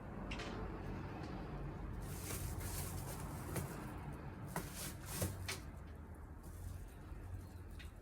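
Handling noises while an air conditioner outdoor-unit cover is fitted: rustling of the cover material with several sharp clicks, the loudest about five seconds in, over a low steady rumble.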